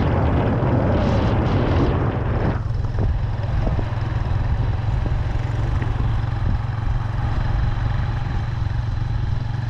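Steady low rumble of a vehicle driving along a road, with a louder rushing noise for the first two and a half seconds that then drops away.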